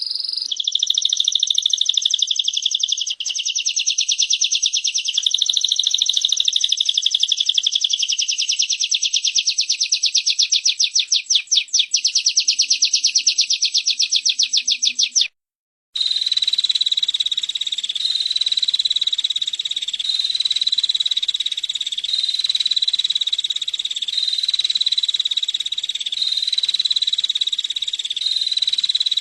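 Female prinia (prenjak) giving a continuous rapid, buzzy trill of high clicks. It cuts off abruptly about 15 seconds in and resumes half a second later as a steadier trill that pulses about once a second.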